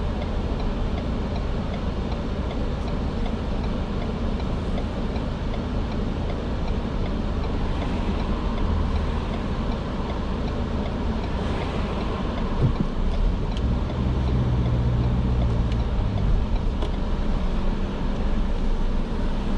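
Car engine and road noise heard from inside the cabin while driving slowly, a steady low rumble with a stronger engine hum from about 13 to 16 seconds in.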